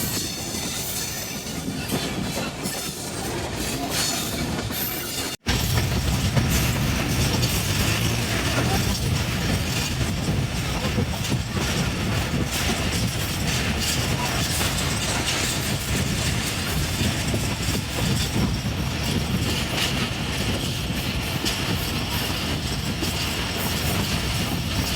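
Passenger train running along the track, its wheels clattering and rumbling steadily. About five seconds in the sound breaks off for a split second, then resumes with a louder, deeper rumble.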